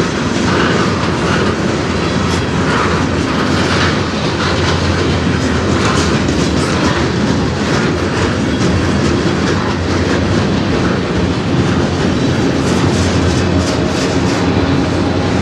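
Freight cars of a manifest train rolling past at steady speed: boxcars, a centerbeam flatcar and autoracks, their steel wheels rumbling on the rails with repeated clicks as they cross rail joints.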